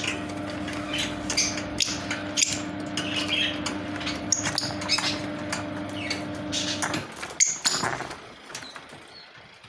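Lovebirds chirping in short high calls, with sharp clicks and taps among them, over a steady electrical hum that cuts off about seven seconds in.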